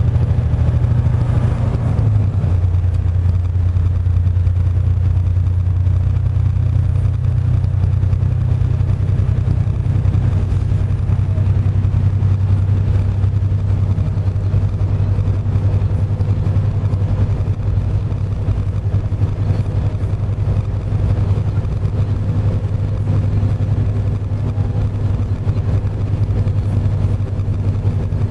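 Heavy truck engine running steadily at road speed, a low drone that steps down a little in pitch about two seconds in.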